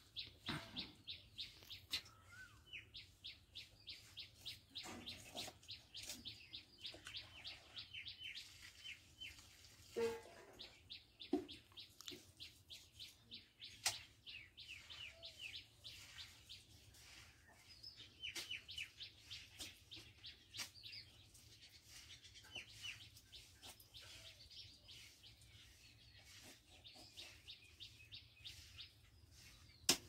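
Small birds chirping faintly in quick runs of short downward chirps, several a second, with pauses between the runs. A few sharper knocks stand out near the middle.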